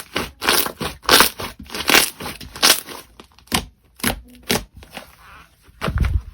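Slime being pressed and squeezed by hand, giving a run of crackling, crunchy squishes about every second or faster, with a heavier squish near the end.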